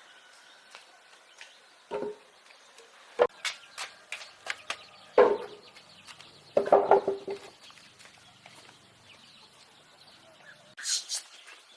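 Chickens clucking: a few short calls over a quiet background, with scattered sharp clicks in between.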